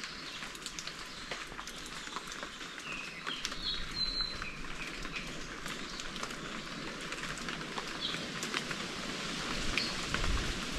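Forest ambience: a steady hiss of light rain with many small drip ticks, and short bird chirps scattered through it, several in the middle and two more near the end.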